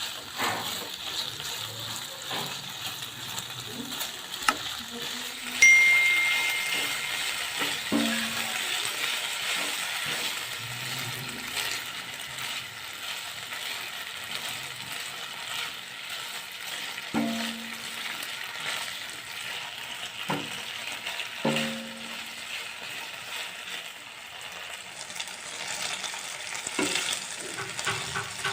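Chicken frying in butter in a pan, with a steady sizzle. A utensil knocks and scrapes against the pan every few seconds, and there is one sharp metallic clang with a brief ring about six seconds in.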